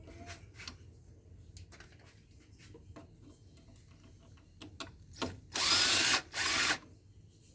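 Power drill run in two short bursts, one right after the other, backing out screws from the inverter's casing, after a few seconds of light clicks and taps of parts being handled.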